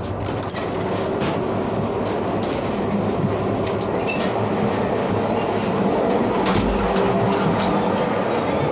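Regional passenger train car running along the line, heard from the vestibule: a steady rumble of wheels on rail, with a few sharp clacks and knocks scattered through it.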